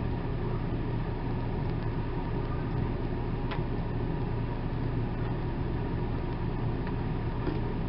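Steady low background hum with a hiss over it, with one faint tap about three and a half seconds in.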